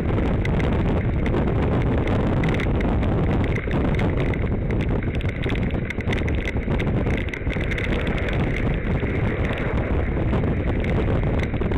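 Wind buffeting the microphone during a bicycle ride: a loud, steady, low rumble with constant flutter.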